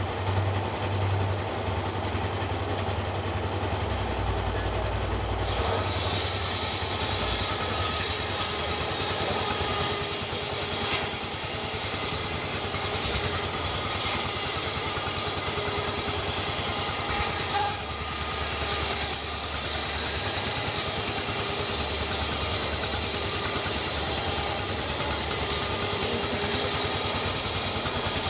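A small engine running steadily. About five seconds in, a steady high hiss joins it and carries on.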